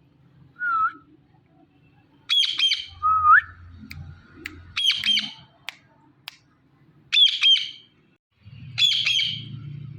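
Indian ringneck parrot giving loud, harsh squawks in four short bursts, with a couple of short whistled notes between them, one rising.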